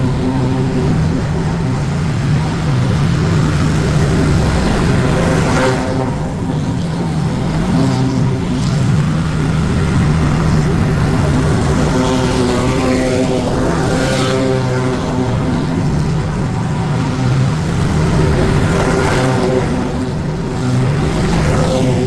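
Lawn mower engine running steadily at working speed, its pitch dipping and rising briefly about midway through.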